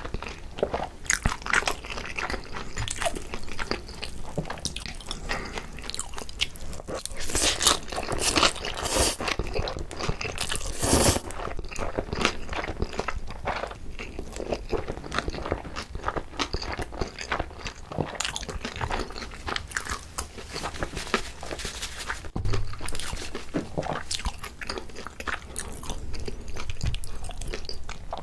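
Close-miked eating sounds: chewing and crunching mouthfuls of food, with many small wet clicks and bites. The loudest stretch comes about a third of the way through, and noodles are taken from chopsticks partway through.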